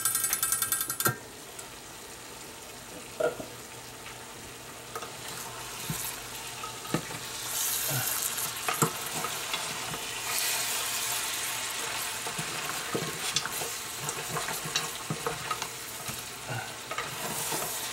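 Goat meat sautéing with garlic, onion and ginger in a stainless steel pot on low heat, sizzling while a spatula stirs it and knocks against the pot now and then; the sizzle grows louder about halfway through. A rapid even clicking is heard in the first second.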